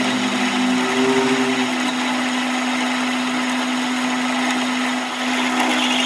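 An electric motor running steadily with a constant hum and a rushing whine above it. A second, higher tone briefly joins about a second in.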